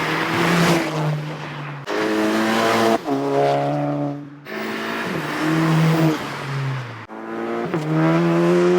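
Volkswagen MK7 GTI's turbocharged four-cylinder engine through an AWE Tuning exhaust, revving and accelerating in a string of short clips cut together, the exhaust note rising and falling in pitch and breaking off abruptly at each cut.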